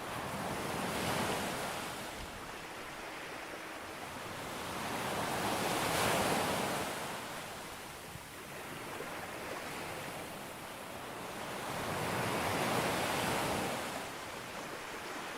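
Sea waves breaking and washing up on a beach, three swells of surf about every six seconds, with a steady hiss between them.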